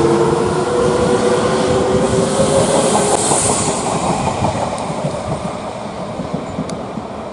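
Electric train running along the rails, wheels clacking over the rail joints, with a steady motor whine that fades in the first half as the sound slowly dies away.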